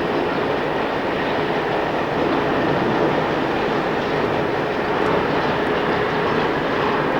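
Freight train hauled by a BR Class 60 diesel running past at steady speed: a continuous rumble of wheels on rail with a faint steady hum, unchanging in level.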